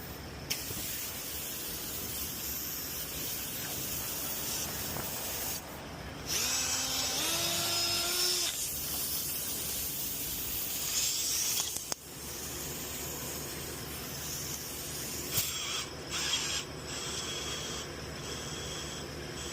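Compressed air hissing in spurts that start and stop several times, with a short rising whine from a small motor about six seconds in.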